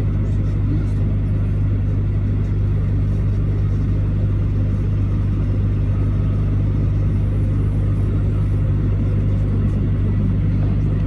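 Truck engine and road noise as a steady low drone, heard from inside the cab while driving.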